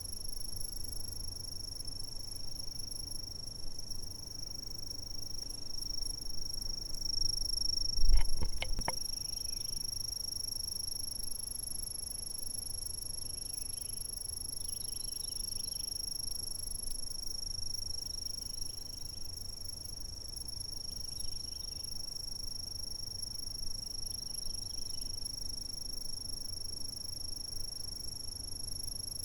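Insects calling in one unbroken, high-pitched, steady trill, with fainter chirps coming and going beneath it. A brief low thump with a few clicks about eight seconds in is the loudest moment.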